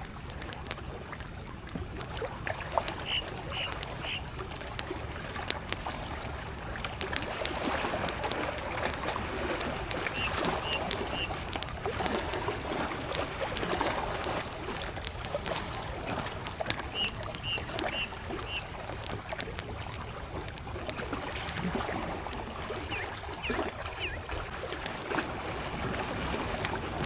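Campfire crackling with frequent sharp pops while small lake waves lap against the shore. A bird gives short, high chirps in groups of three or four, three times.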